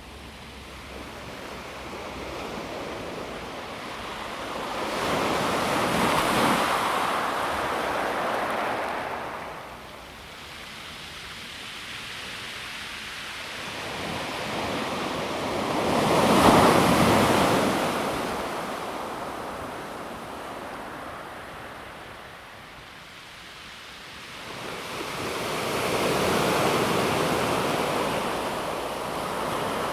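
Calm sea waves breaking and washing over a pebble beach. Three waves swell and ebb about ten seconds apart, the middle one loudest.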